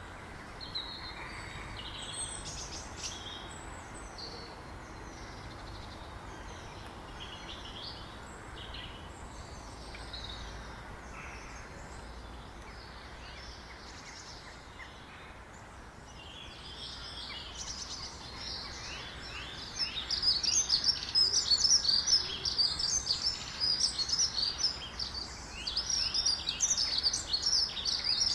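Small birds chirping over a steady outdoor background hiss, scattered at first. About two-thirds of the way through, the chirps become a loud, fast run of high, short notes.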